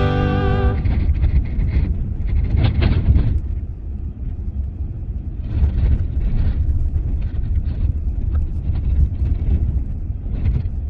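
Steady low rumble of a vehicle in motion, with scattered knocks and rattles over it. Guitar music cuts off just under a second in.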